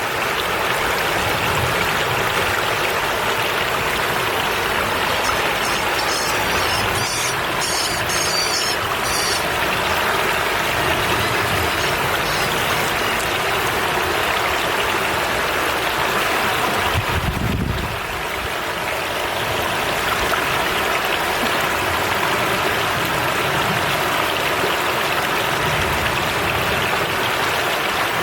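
River water flowing fast, a steady rushing noise. A brief spell of high-pitched chirping comes about six to nine seconds in.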